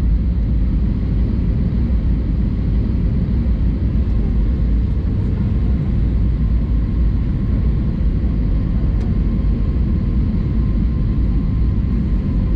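Steady cabin noise inside an Airbus A320-200 in flight, a loud even rumble of engines and airflow with a faint steady hum over it.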